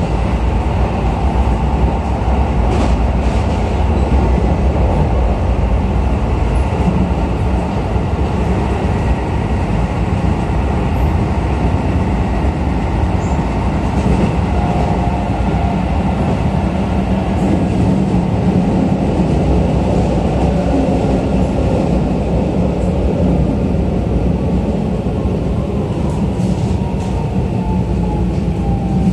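Running noise inside a Keisei 3000-series electric commuter train: a steady rumble of wheels on rail. Near the end a falling motor whine comes in as the train slows into a station.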